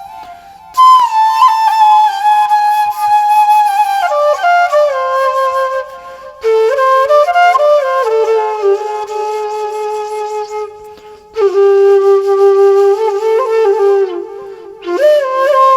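Background music: a flute-like woodwind melody played in phrases with short breaks.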